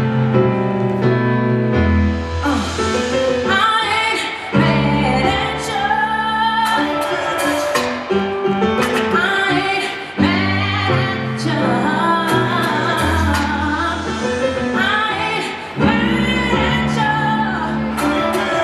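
Live piano music with a woman singing wordless, sliding vocal runs over held chords.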